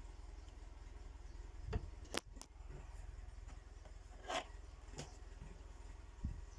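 A handful of short clicks and rubbing handling noises over a low steady hum, the sharpest pair about two seconds in.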